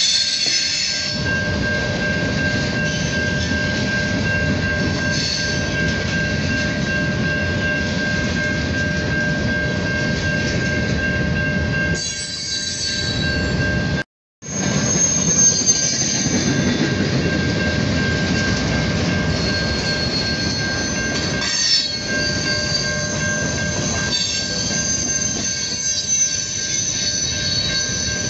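Norfolk Southern manifest freight train's cars rolling past at close range: a steady low rumble of wheels on rail with high metallic wheel squeal coming and going over it. The sound drops out to silence for a split second about halfway through.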